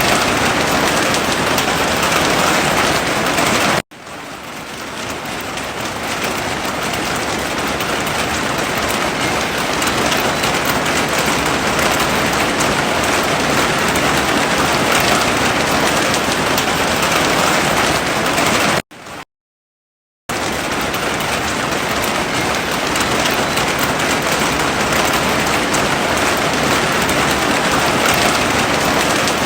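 Heavy rain falling steadily as an even hiss. It cuts out abruptly about four seconds in and fades back up over a couple of seconds, then drops out again for about a second and a half later on.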